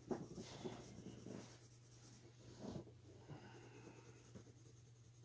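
Faint scratching of an oil-based colored pencil shading on paper, in short, irregular strokes.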